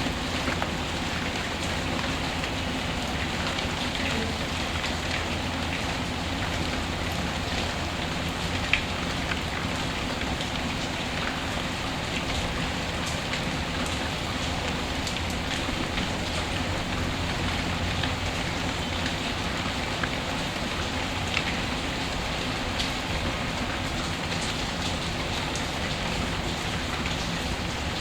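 Steady rain ambience mixed with a fireplace, with scattered sharp crackles and one louder pop about nine seconds in.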